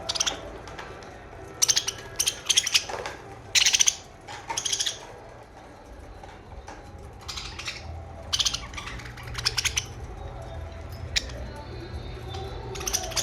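Pet budgerigars chirping and chattering in quick, harsh bursts, busiest in the first five seconds and sparser afterwards.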